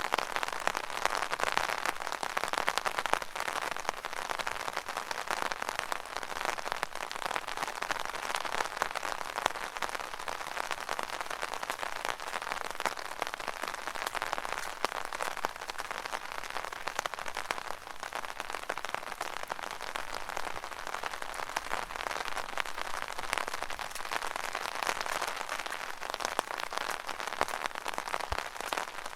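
Rain falling on an umbrella: a steady, dense mass of small drop ticks on the canopy, swelling and easing slightly.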